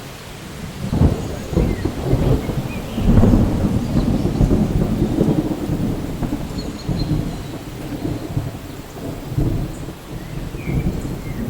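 Rolling thunder over steady rain: a low rumble builds about a second in, is loudest around three seconds, and slowly dies away near the end.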